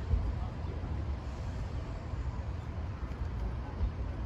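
Low, steady rumble of a passenger train running over the level crossing.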